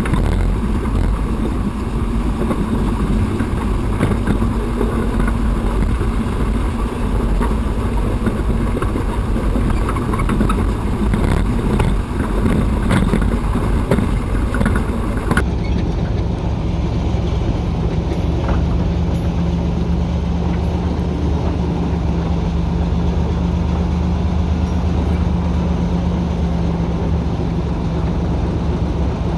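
Diesel engine of a TU6A narrow-gauge locomotive, a YaMZ-236, running steadily while the locomotive is under way. About halfway through the hiss in the upper range drops away and a steadier drone carries on.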